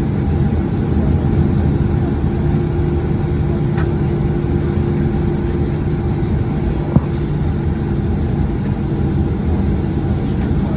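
Steady low rumble and hum inside the cabin of a Boeing 737-900ER on the ground, its CFM56-7B engines idling near the gate, with a single sharp click about seven seconds in.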